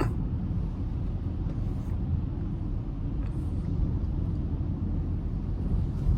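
Car engine and road noise while driving: a steady low rumble.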